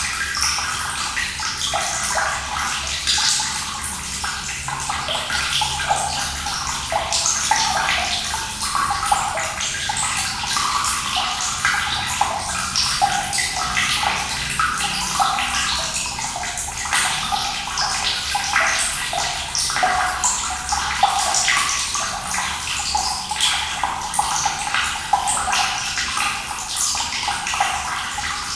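Running water, a steady splashing rush with many small irregular splashes and no pauses.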